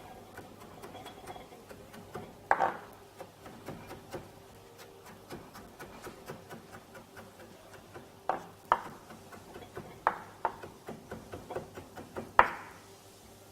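Knife chopping fresh coriander on a cutting board: a run of quick light taps with about six louder knocks, the loudest near the end.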